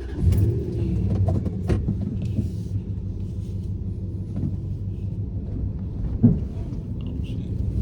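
Dodge Ram pickup's Hemi V8 running with a steady low rumble, with a few light clicks and one brief louder knock about six seconds in.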